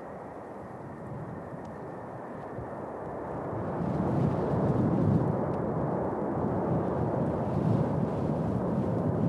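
Jet engines of a Boeing 747-400, a low steady roar that swells about three to four seconds in and then stays loud.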